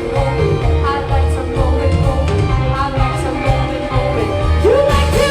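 A big band playing live, with singing over a steady, pulsing bass beat.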